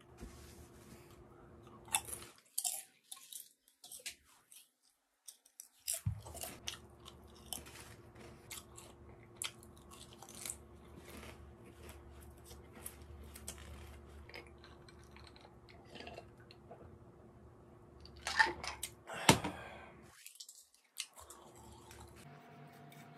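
Potato chips being crunched and chewed close to the microphone: many short, crisp crunches, with a louder run of them late on.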